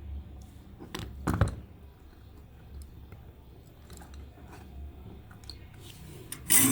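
Handling noise of small tools and parts: scattered light clicks and taps, a louder knock about a second and a half in, and a sharp clatter with a brief ring near the end.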